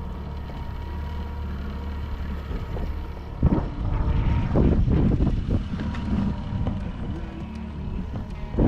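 Boat motor running with a steady hum, then wind buffeting the microphone in loud, rough gusts from about three and a half seconds in.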